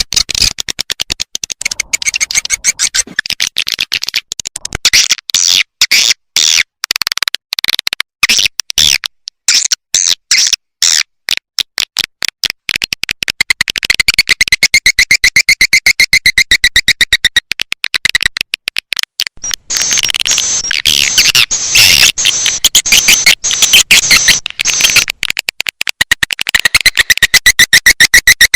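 Swiftlet lure recording: edible-nest swiftlet calls repeated as a looped, electronic-sounding track of rapid high chirps and twitters, used to call swiftlets into a nest house.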